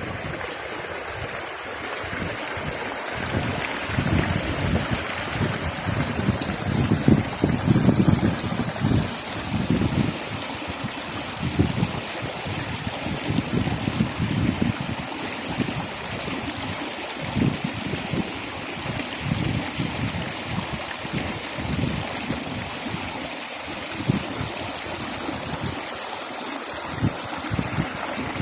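A stream of water running steadily, with gusts of wind buffeting the microphone, strongest about seven to eight seconds in.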